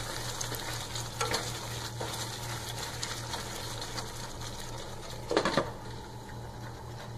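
Thick onion-tomato masala paste sizzling in a steel pot as it is stirred and scraped with a wooden spatula; its extra water has cooked off, so the paste is now frying in its oil. About five seconds in a glass lid goes onto the pot with a single knock.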